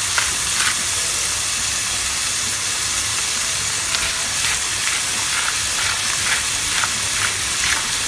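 Ground beef, onions and garlic frying in olive oil in a pan with cumin, turmeric and salt: a steady sizzle with scattered short crackles.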